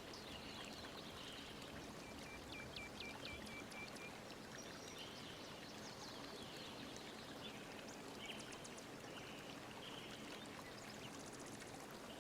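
Faint steady rush of running water with birds chirping throughout, including a quick run of about eight short high notes a couple of seconds in.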